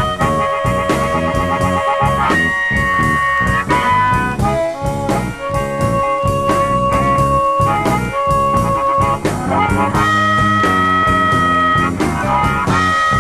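Electric blues band playing an instrumental break: a harmonica leads with long held notes and quick warbles over guitar, bass and drums.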